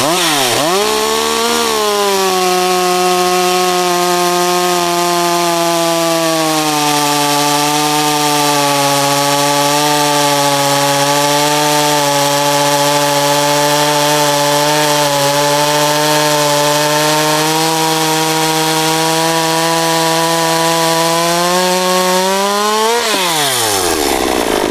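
A 201 two-stroke chainsaw at full throttle makes a timed cut through a log. The engine pitch drops as the chain bites in, about a second in, and holds steady under load through the long cut. Near the end it rises sharply as the chain breaks through, then falls as the throttle is let off.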